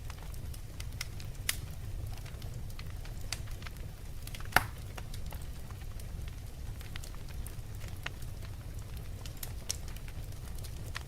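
Wood fire crackling over a steady low rumble, with scattered small pops and one sharp, louder pop about four and a half seconds in.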